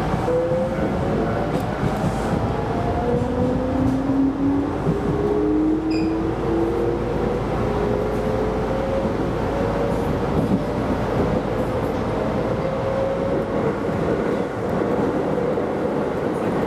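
Keisei Line electric train running, heard from inside the front car: a steady rumble of wheels and car body, with the traction motors whining in several tones that rise slowly as the train picks up speed.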